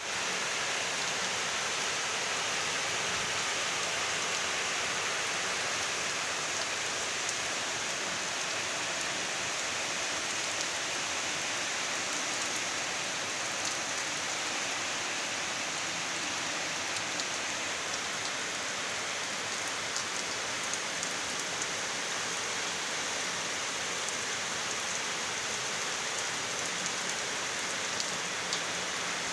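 Steady rain falling, an even hiss of rainfall on surfaces with scattered drop ticks.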